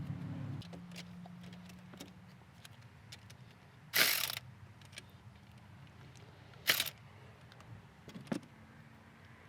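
Hand tools and parts being handled during reassembly: scattered light clicks and clatter, with two short, loud rasping bursts about four and seven seconds in, over a steady low hum.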